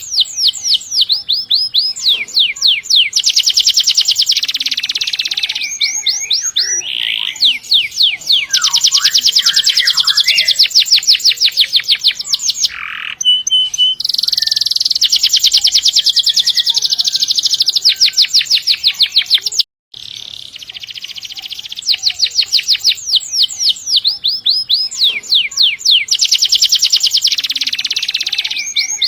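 Domestic canary singing long, fast rolling trills of rapidly repeated high notes, in runs of several seconds broken by short pauses. The sound cuts out for an instant about twenty seconds in.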